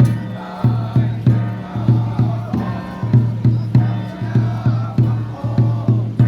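Group chanting by xiaofa ritual masters over a steady low drum beat, about two to three strikes a second.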